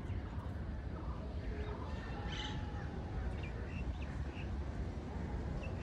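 Birds calling outdoors: one louder call about two and a half seconds in, then a few short high chirps, over a steady low rumble of outdoor ambience.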